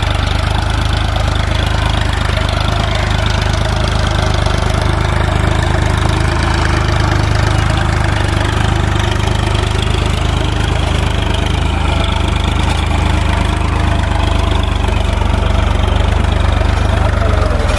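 Massey Ferguson 8055 tractor's 50 hp diesel engine running steadily at a constant speed.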